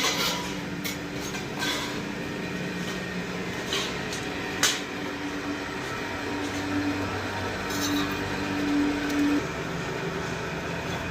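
Steady machine hum with a few sharp metallic clinks and taps, typical of stainless steel sheet being worked.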